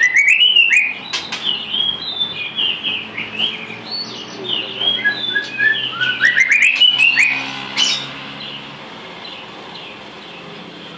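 A murai songbird singing a fast, varied run of whistled phrases and slurred notes, stopping about eight seconds in.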